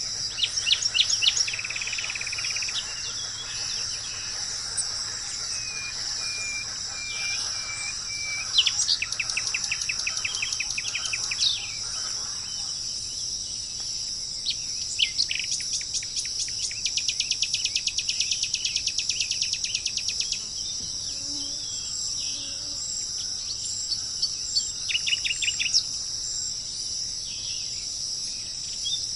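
Small birds singing: rapid trills and chirps, a run of even whistled notes a few seconds in, and a long fast trill in the middle, over a steady high-pitched insect-like hiss.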